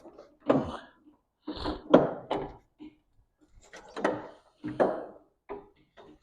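A run of irregular, separate knocks and thunks, with short silences between them and no engine running yet.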